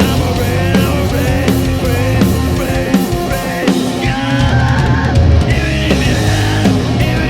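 Live rock band playing a loud song, with a drum kit and a singer.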